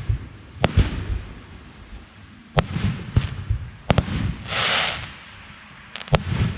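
Aerial fireworks bursting: four sharp bangs spaced one to two seconds apart, with low rumbling between them and a hissing rush of about half a second near the middle.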